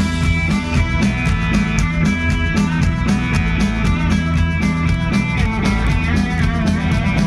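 Live rock band playing an instrumental passage: guitar chords over bass and drum kit, with a steady driving beat.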